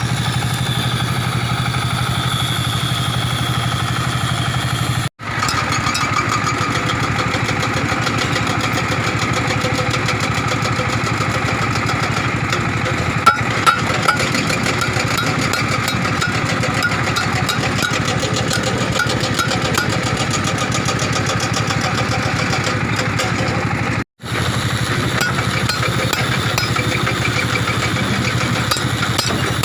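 Excavator diesel engine running steadily at constant speed, with a few sharp clicks about halfway through. The sound cuts out for an instant twice.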